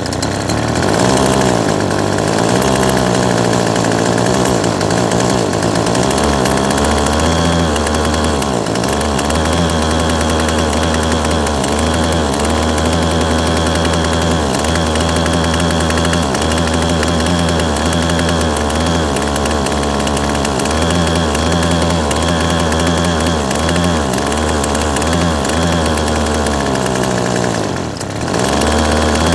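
Yardworks 25cc two-stroke trimmer engine running at high speed on a newly fitted carburetor, without its cutting head on, so freewheeling. The engine note dips and recovers over and over, with one short drop in speed near the end.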